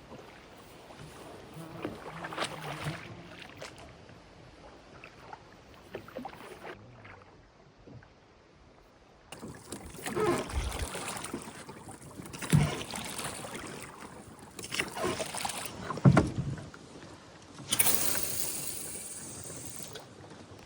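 Small boat on a lake: irregular water splashes and knocks against the hull, busier and louder in the second half.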